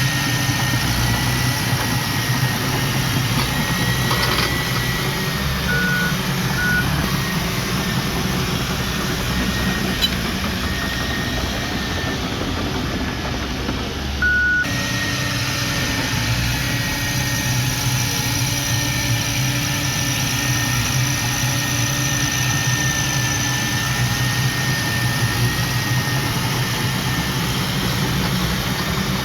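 Heavy diesel earthmoving machinery running steadily, with a thin high whine over the engine note. A few short beeps sound about six and fourteen seconds in.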